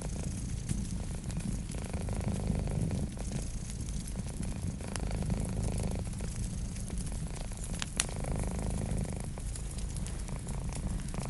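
Cat purring steadily, swelling and easing with each breath, over a crackling wood fire with scattered small pops. One sharper pop comes about eight seconds in.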